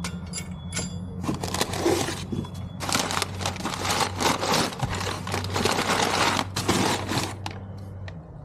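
Metal scraping and clattering as a short shifter drop plate is pushed and worked against its mounting bolts, its holes not lining up. The scrapes and clicks start about a second in and run for several seconds before dying down near the end.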